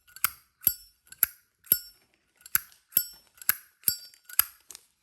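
Brass-cased Zippo lighter lid being flipped open and snapped shut over and over: about nine sharp metallic clinks roughly half a second apart, each with a brief bright ring.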